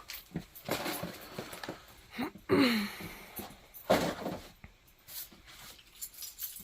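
Scattered knocks and rustling of things being handled, with a short squeal about two and a half seconds in and a sharp knock about four seconds in.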